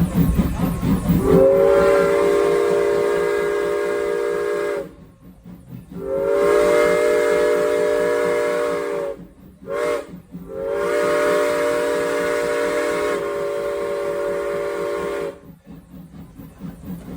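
Steam locomotive's chime whistle sounding long, long, short, long: the grade-crossing signal. A steam hiss runs underneath and between the blasts.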